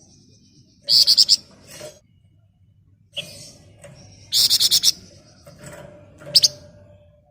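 Caged songbird of the kind Indonesian bird-keepers call 'flamboyan', singing in rapid, harsh chattering trills. Three loud bursts come about a second in, around four and a half seconds, and near six and a half seconds, with thinner steady whistled notes between.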